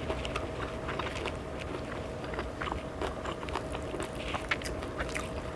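A person chewing food close to the microphone, with many small irregular mouth clicks and smacks.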